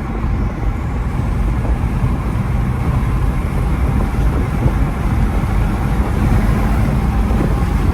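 BMW X3 M's twin-turbo inline-six running steadily at a cruise, with road and tyre noise.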